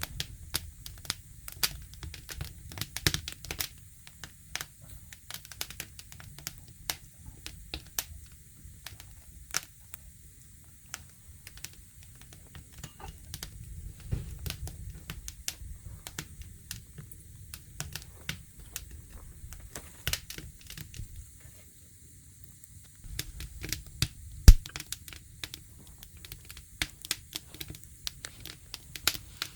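Wood fire crackling with irregular snaps and pops, one louder pop about 24 seconds in, over a low rumble.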